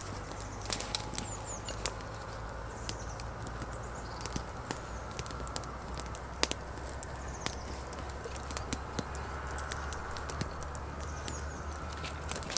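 Wood campfire crackling, with irregular sharp pops and snaps from the burning sticks.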